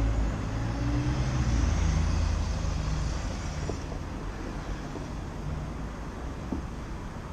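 City street traffic: a motor vehicle runs close by with a low hum at first, then fades away about three or four seconds in, leaving a steady wash of road noise.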